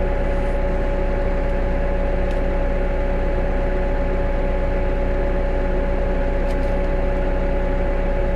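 New Holland T5.120 tractor engine running steadily, a continuous drone with a constant whine over it.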